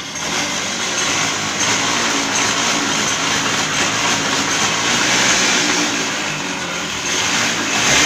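TVS XL Super moped engine running steadily, with a mechanical clutch noise over it. The mechanic puts the noise down to the clutch shoe's top plate rubbing inside the clutch bell after the clutch ran with no oil.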